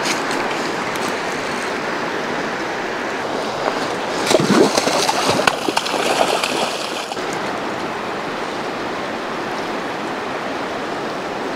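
River current flowing steadily, an even rushing, with a few seconds of louder, uneven noise starting about four seconds in.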